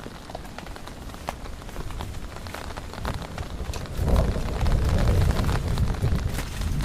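Heavy rain falling, with many close drops ticking sharply. About four seconds in, a deep low rumble sets in and holds, louder than the rain.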